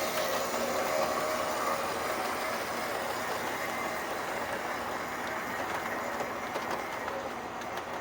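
O gauge model steam locomotive running with a string of freight cars on outside third rail track: steady wheel rumble and rattle over the rail joints, with a motor whine.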